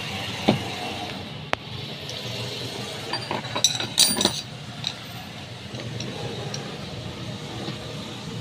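Metal tools and grinder parts being handled: a knock about half a second in, a sharp click, then a cluster of ringing metallic clinks in the middle, over a steady background hum.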